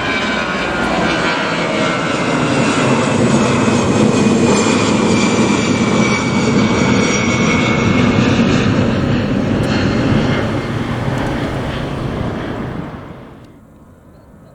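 Jet airliner taking off, its engines at takeoff thrust, a loud rush with whining tones that slowly fall in pitch. The sound drops away quickly near the end.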